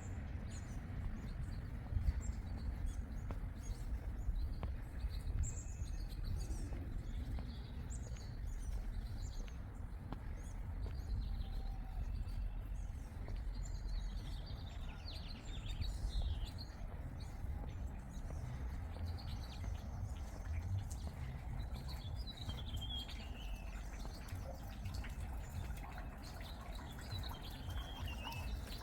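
Small birds chirping and calling, with short high chirps scattered throughout and a falling run of notes about two thirds of the way in and again near the end, over a steady low rumble.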